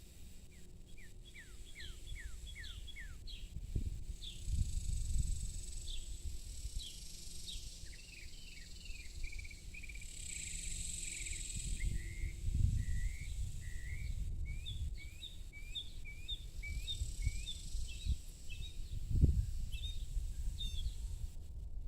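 A bird calling in quick runs of short, falling chirps, over a steady high insect buzz. Bursts of low rumble come and go underneath.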